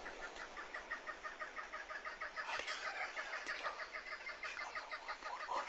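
Birds calling in a fast, steady chatter of short repeated notes, about eight to ten a second, with a few louder calls in the middle and near the end.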